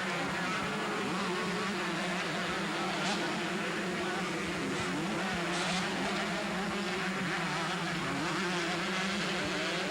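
125cc two-stroke motocross bikes racing, their engines buzzing and revving up and down without a break.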